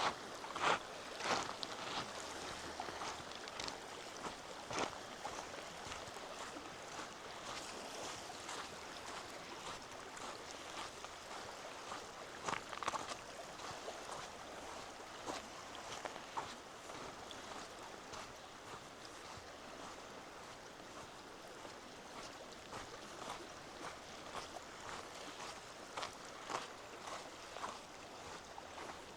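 Footsteps on a trail, loudest and most regular in the first few seconds and then fainter, over a steady sound of water.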